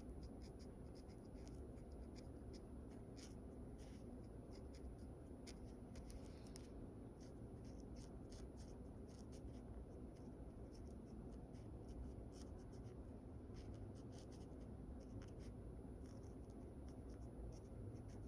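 Sketching on paper: many short, irregular scratching strokes of a drawing tool, faint and close, coming in quick runs with small pauses between them.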